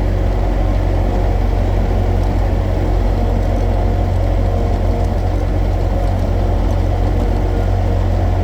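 Skid steer engine running steadily at an even speed.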